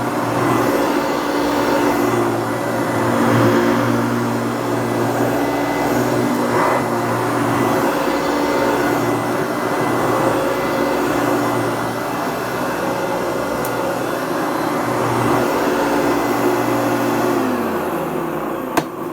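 Hoover TurboPower U2332 upright vacuum cleaner running steadily with a motor hum and whine. Near the end it is switched off: the motor winds down in pitch, and there is a sharp click.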